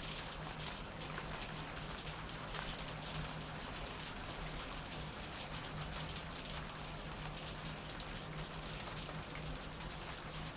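Steady rain falling, with many small drop ticks, over a constant low hum.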